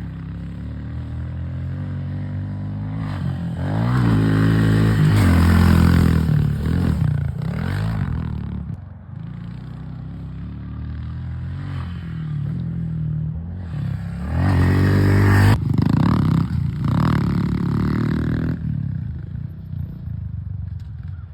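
Pit bike engines revving up and down as the bikes ride past, rising and falling in pitch, loudest twice: about four to seven seconds in and again about fourteen to sixteen seconds in.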